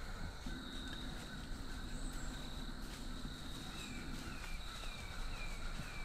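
Woodland ambience. A low steady hum runs for most of the first four seconds. Then a bird repeats a short falling whistle about twice a second, over a faint high tone that comes and goes.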